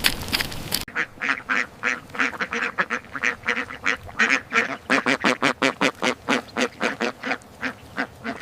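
Poultry calling in a fast run of short, pitched, nasal-sounding calls, several a second, which starts abruptly about a second in after a crackling noise cuts off.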